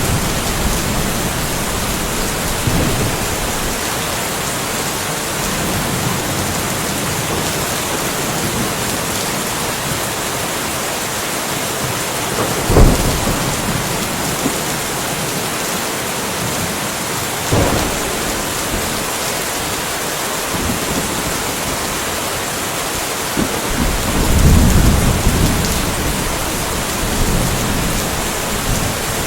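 Steady rain falling in a light thunderstorm, with two sharp thunder cracks a little under halfway through and a deep rumble of thunder in the last few seconds.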